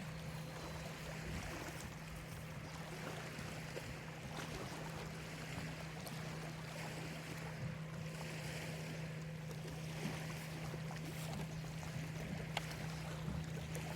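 Small lake waves lapping and washing on the shore in slow, repeated swells, over a steady low hum.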